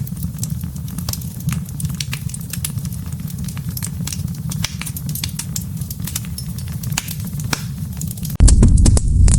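Campfire crackling: a steady low rumble of burning wood with frequent sharp pops and snaps. Near the end it cuts suddenly to a much louder, deeper rumble.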